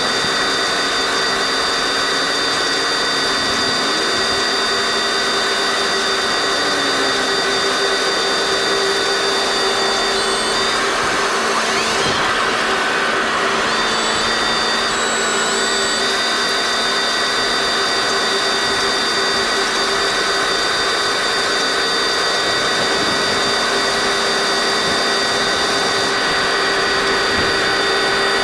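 Tractor running steadily while pulling a Massey Ferguson 1840 small square baler through hay: a constant droning whine with several held tones. The tones shift and dip for a few seconds around the middle, then settle back.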